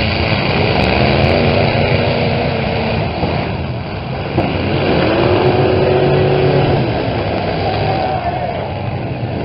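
Several small pickup trucks' engines revving hard together in a demolition derby, pitches rising and falling, with one sharp bang about four and a half seconds in.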